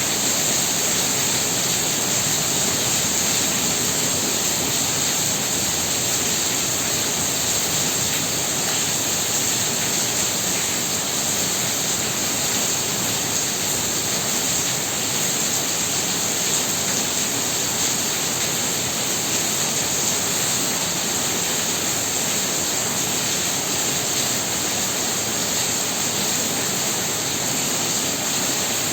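Heavy rain pouring down steadily, an even hiss of downpour with no breaks.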